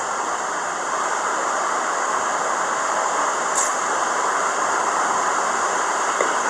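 Steady rushing noise with no clear pitch, and a brief click about three and a half seconds in.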